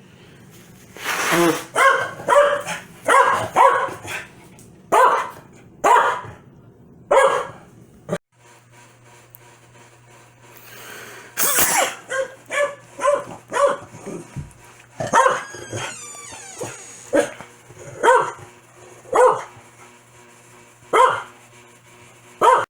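Corgi barking angrily in repeated sharp barks, often several in quick succession, then short pauses, over and over.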